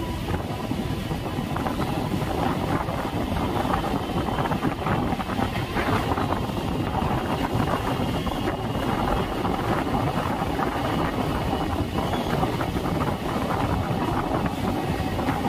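A passenger train running at speed, heard from an open coach doorway: a steady rumble of wheels on the rails mixed with rushing wind on the microphone.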